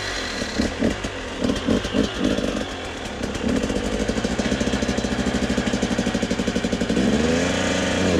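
Husqvarna TE250 enduro motorcycle engine just after starting, running unevenly at first, then settling into a steady, rapid idle for a few seconds before being revved up near the end.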